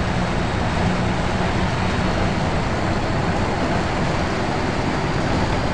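Volvo B10BLE diesel bus running steadily, a constant engine drone and road noise with a faint, steady high-pitched whine above them, the strange noise this bus makes.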